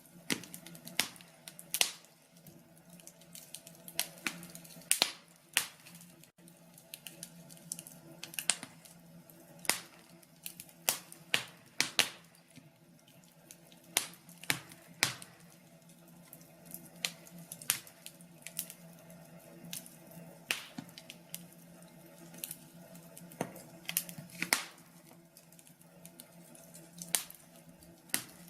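Wood fire in a fireplace crackling, with sharp irregular pops and snaps over a faint steady low hum.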